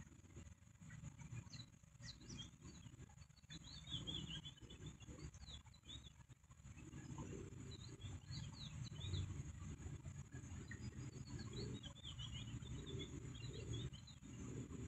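High, thin bird chirps come in short runs several times, over a faint low rumble.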